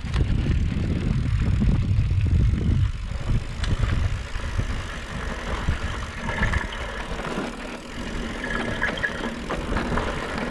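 Wind rumbling on the microphone and rolling noise while riding a bicycle, heaviest for the first three seconds, then lighter.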